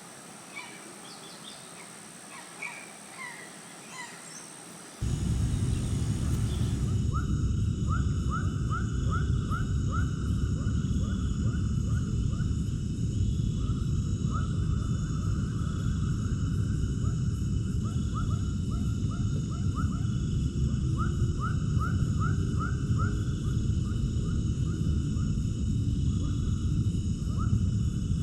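Outdoor ambience with birds calling in short scattered chirps. About five seconds in it cuts to a louder scene: a steady low rumble under rapid runs of repeated chirping calls and several steady high-pitched tones.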